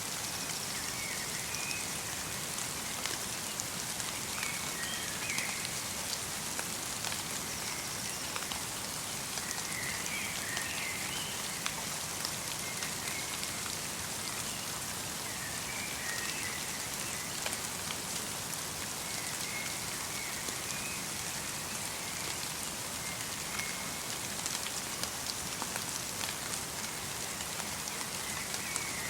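Light rain mixed with snow falling steadily in a forest, a constant hiss dotted with many small drop ticks. Small birds give brief, faint chirps every few seconds.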